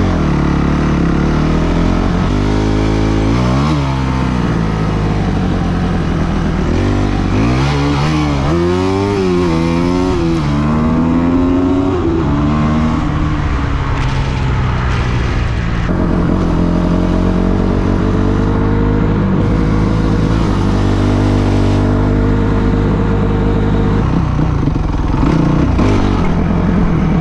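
A vehicle engine running, idling steadily and revved several times, its pitch rising and falling about three seconds in and again between about eight and twelve seconds.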